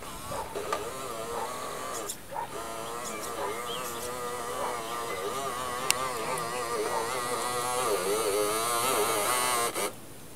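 Radio-controlled Bruder Scania toy truck's electric drive running with a whine whose pitch keeps wavering up and down. It stops suddenly near the end.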